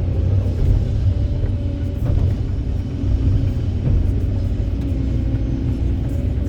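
Heavy diesel machinery running steadily, a deep low rumble, typical of an excavator working while it loads a dump truck.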